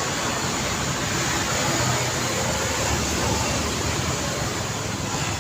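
Steady road traffic noise: passing cars and motorbikes making an even rush of tyre and engine noise, with a low rumble.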